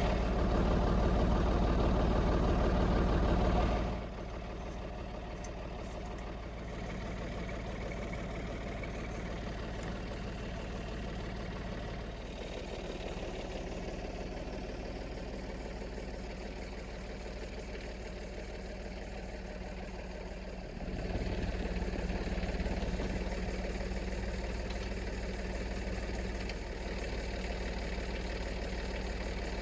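An engine running steadily at idle. It drops suddenly to a quieter level about four seconds in and comes back louder near the last third.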